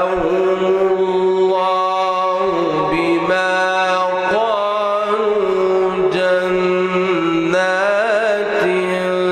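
A man's voice reciting the Quran in the slow melodic mujawwad style. He holds long, drawn-out notes that waver and turn in ornamented runs, shifting pitch every second or so.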